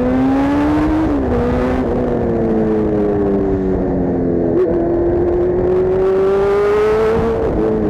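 Kawasaki Z1000's inline-four running loud through an Arrow full-system exhaust while ridden. The engine note climbs and drops about a second in, as at a gear change, then falls slowly as the throttle eases, and climbs again before another drop near the end.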